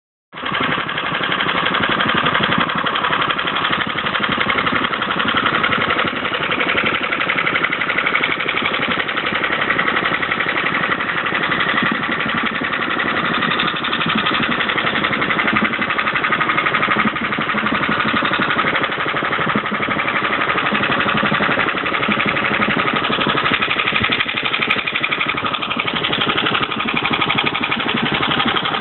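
Qualcast Suffolk Punch 35S cylinder lawn mower's small petrol engine ticking over steadily at idle.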